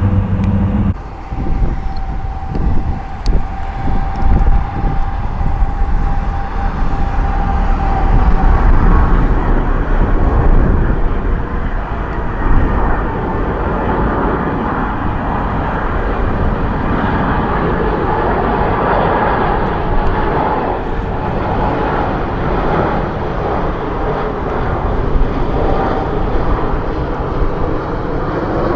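Jet airliner engines running as the aircraft passes close by: a loud, steady rumble with a whine. There is a short break about a second in.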